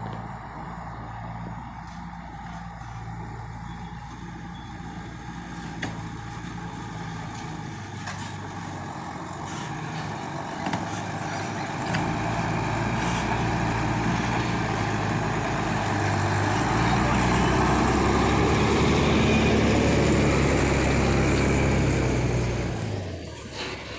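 Diesel engine of a loaded Volkswagen 24.220 truck pulling away, a steady low note that gets louder and heavier from about halfway, then drops off abruptly about a second before the end.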